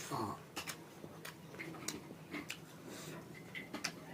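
A person chewing food, with irregular soft clicks and mouth smacks.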